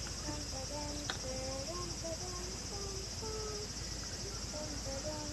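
Night chorus of crickets trilling steadily, with a quiet simple melody of held notes under it.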